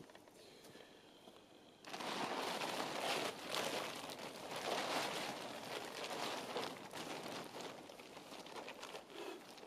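Polyethylene tarp crinkling and rustling as it is handled and spread out, starting suddenly about two seconds in.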